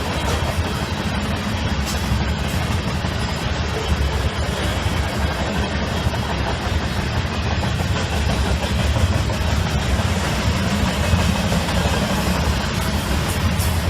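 Freight train of covered grain hopper cars rolling past with a steady low rumble.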